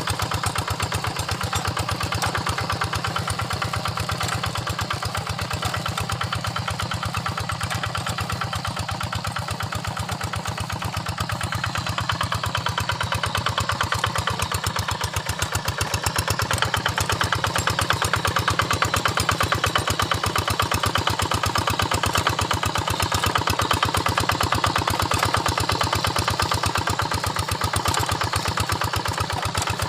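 Quick Impala two-wheel hand tractor's single-cylinder diesel engine running steadily with a fast, even firing beat, working a flooded paddy. It gets a little louder about halfway through.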